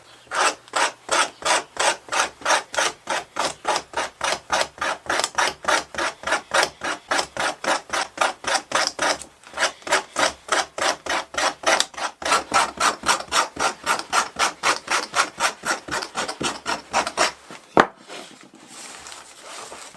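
Back of a piece of leather being scored by hand: rapid back-and-forth scratching strokes, about three or four a second, with a couple of brief pauses. The scratching stops near the end and is followed by a single sharp knock.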